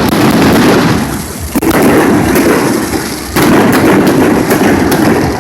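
Fireworks display: loud, continuous booming bangs with crackling, a fresh sharp bang about a second and a half in and another just past three seconds.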